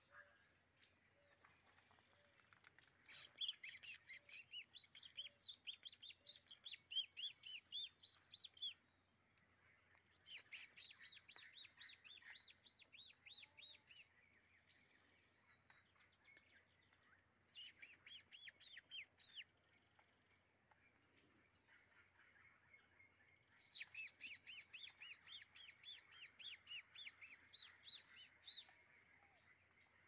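A bird calling in four bouts of rapid repeated notes, about four a second, over a steady high-pitched insect drone.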